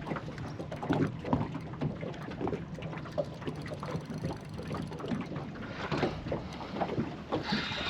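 Small boat on the water: light irregular slapping and ticking against the hull, with wind on the microphone.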